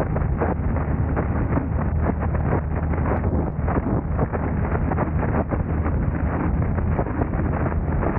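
Steady driving noise from a moving car: a low hum under a constant rough rumble of road and wind noise, with many small irregular knocks and buffets.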